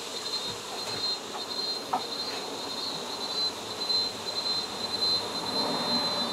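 Honey bees buzzing around an exposed hive, with a steady high-pitched whine running over it.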